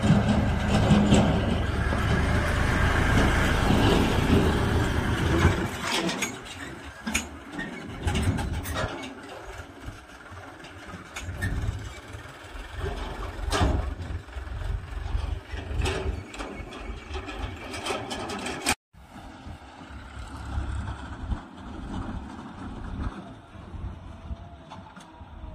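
Tractor engine running, loud for the first five seconds or so, then quieter with scattered knocks and clatter.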